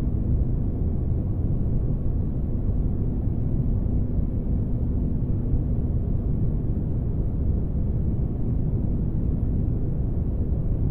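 Spaceship ambience: a steady, deep engine-like rumble with a faint constant hum, unchanging throughout.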